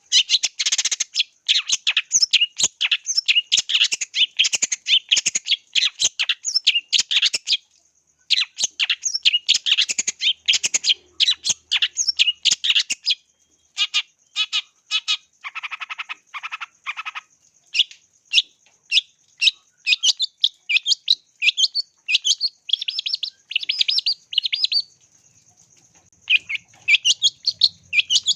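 Long-tailed shrike (cendet) singing in long runs of rapid, harsh chattering calls, broken by short pauses. Partway through come a few lower, rattling calls.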